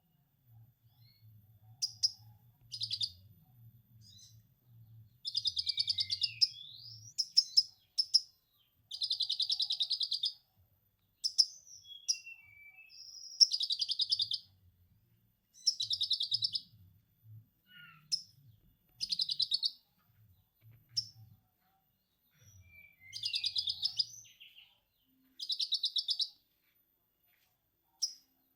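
A konin songbird singing lovebird-style 'ngekek' material: repeated bursts of rapid, high chattering, each about a second long with short pauses between, and a few brief whistled notes in the gaps. A faint low hum runs underneath through the first half.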